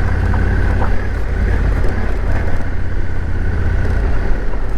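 Motorcycle running while riding over a rough, unpaved-feeling town street, with a steady low rumble from the engine and the road.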